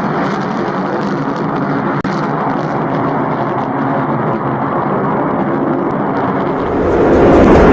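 Aircraft engines running steadily, with a brief dropout about two seconds in and growing louder near the end.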